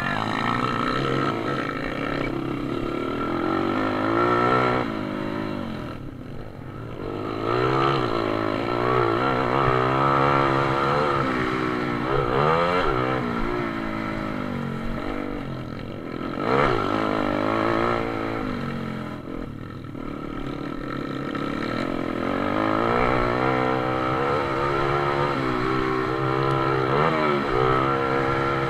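Pit bike engines racing, revving up and falling back again and again as the riders accelerate and shift through the gears. The sound dips twice, briefly.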